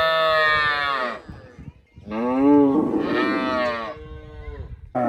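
A cow mooing: two long calls, the first ending about a second in, the second starting about two seconds in and bending in pitch.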